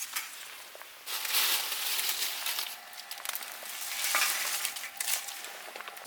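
Freshly lit wood fire in a round steel fire pit, crackling and hissing, swelling louder twice.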